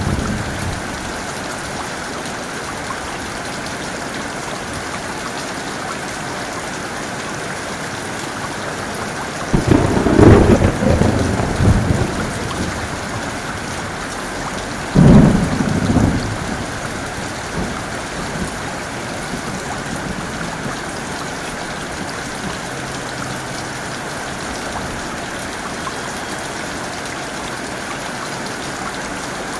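Heavy rain falling steadily, with two claps of thunder: a rumble about ten seconds in and a sudden crack about fifteen seconds in that fades over a second or so.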